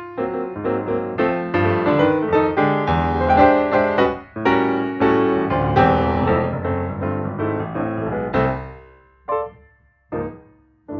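Background piano music with quick struck notes, fading out near the end and followed by a few lone notes.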